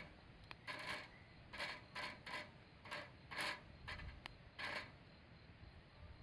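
Wood campfire crackling: a string of short, irregular pops and snaps, about eight or nine in six seconds.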